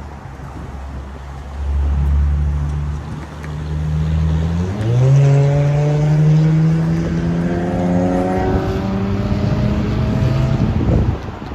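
A large engine running: a low steady drone that jumps up in pitch about halfway in, then climbs slowly and evenly as it is throttled up, before cutting off shortly before the end.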